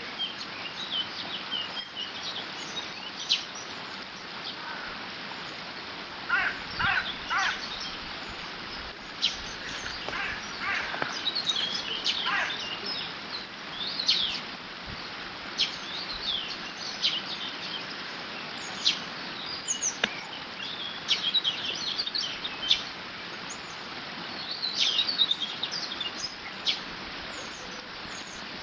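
Steady rush of water flowing through a beaver dam, with many short bird calls and chirps scattered throughout.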